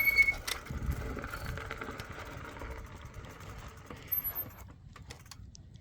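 E-bike riding over rough ground: a rattling, rumbling noise that fades steadily as the bike slows, with a high whine that stops just after the start and a few light clicks near the end.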